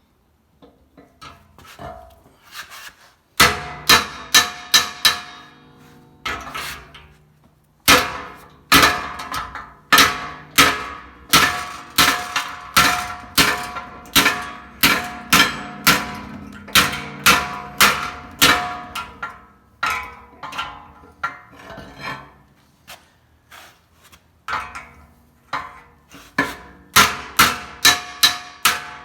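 Hammer striking a sheet-steel patch panel over a dolly or stake as it is shaped, each blow ringing metallically. The blows come in runs of about two to three a second with short pauses, the longest pause a few seconds in.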